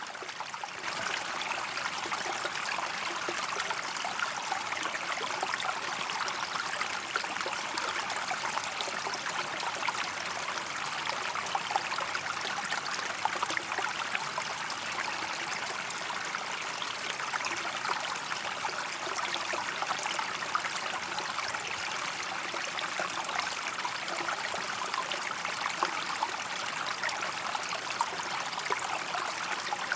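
Running water of a stream, a steady, even rush dotted with fine splashes.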